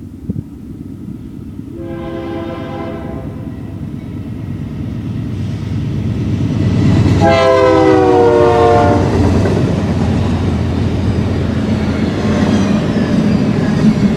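BNSF freight train's diesel locomotive horn: a short blast about two seconds in, then a louder, longer blast about seven seconds in whose pitch drops as the locomotive passes. Underneath, the rumble of the approaching train grows to its loudest with the pass and carries on as the train rolls by.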